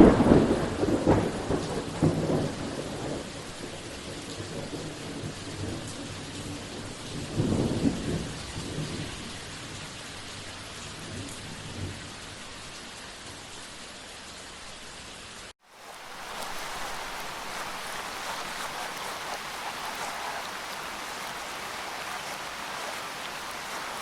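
Steady rain falling in a thunderstorm, with a loud rumble of thunder at the start and another about seven seconds in. Just past halfway the sound cuts out for a moment, and the rain carries on with a brighter, hissier sound.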